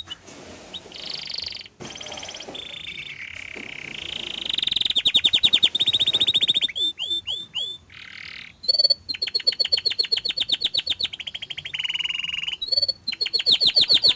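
Domestic canary singing a long song of rapid trills and repeated notes, switching to a new roll every second or two, with fast runs of short down-sweeping notes about halfway through.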